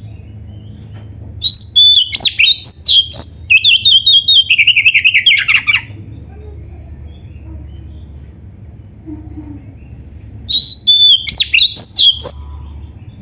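Oriental magpie-robin (kacer) singing in two loud bursts: a run of high whistles sliding up and down, then a fast rattling trill of falling notes that ends about six seconds in, and after a pause another short phrase of whistles near the end.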